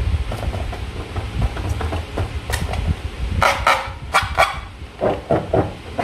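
Slime being squeezed and worked by hand, giving irregular wet, sticky crackles and squelches over a low rumble, with a burst of sharper crackling about three and a half seconds in.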